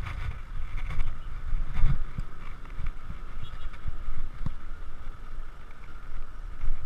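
Wind rumbling on the action camera's microphone during a bicycle ride, with a few sharp knocks from the bike going over bumps, under a steady high buzz like insects.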